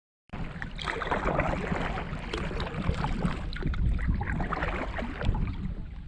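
Wind buffeting the microphone over water splashing and lapping, as a canoe is paddled on a lake. It starts abruptly about a third of a second in.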